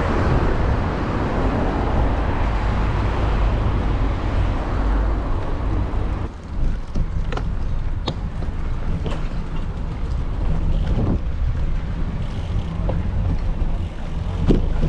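Wind rumbling on the microphone and road noise during a bicycle ride. The wind eases about six seconds in, leaving scattered clicks and knocks over the rumble.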